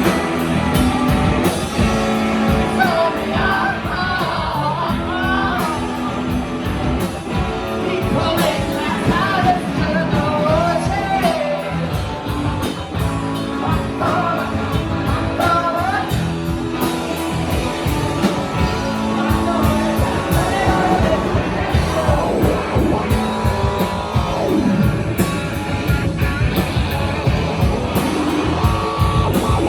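Live rock band playing: electric guitars and drum kit with a sung vocal line, the singing dropping out in the last several seconds while the instruments carry on.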